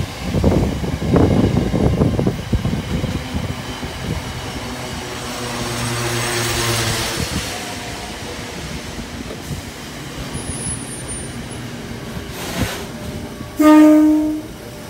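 Container freight train rumbling and clattering past on the rails, its wagons trailing away. Near the end a Sydney Trains Tangara electric train arrives close by and gives one short horn blast, the loudest sound.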